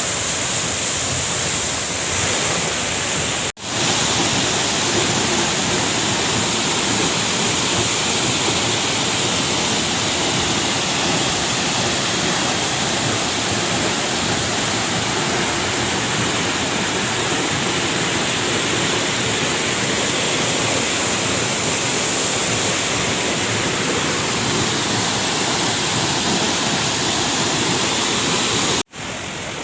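A waterfall pouring down from a great height, a loud, steady rush of falling water. It cuts out for an instant twice, once about three and a half seconds in and again near the end.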